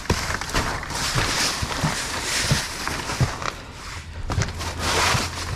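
Junk being shifted and handled by hand: a string of irregular knocks and clatters over rustling and scraping.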